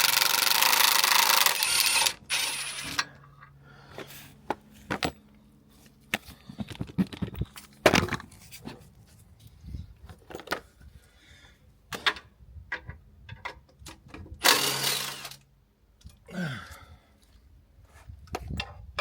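Power impact wrench running in bursts as it undoes the nuts around a truck's clutch cover: a long burst over the first two seconds and a shorter one about three-quarters of the way through. In between come scattered clinks and knocks of nuts and tools.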